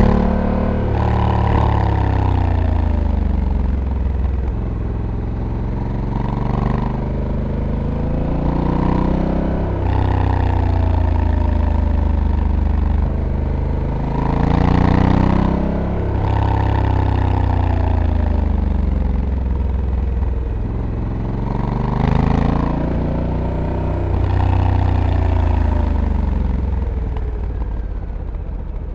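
Honda Africa Twin's 1084 cc parallel-twin engine heard onboard while riding, its revs falling as it slows for corners and rising again as it pulls out of them, several times over.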